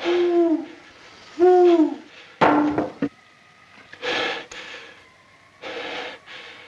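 Owl hooting three times, each hoot a short arched call, followed by two brief noisy rustling bursts.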